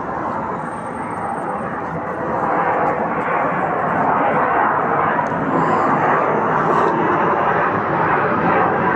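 Jet noise of an F-16 fighter making a slow display pass: a steady rushing engine sound that grows louder about two to three seconds in and stays loud.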